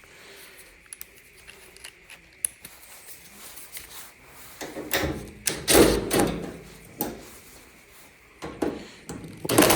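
Dryer disassembly handling: a few light clicks, then loud scraping and knocking of the dryer's cabinet parts being moved, once about five seconds in and again near the end.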